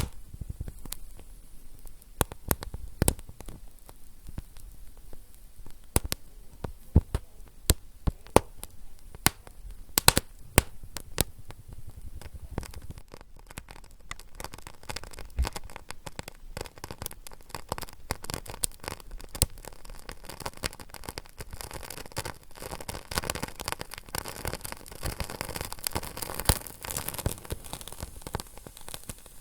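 Wood fire crackling: irregular sharp pops and snaps over a steady hiss, the hiss growing fuller and busier in the second half.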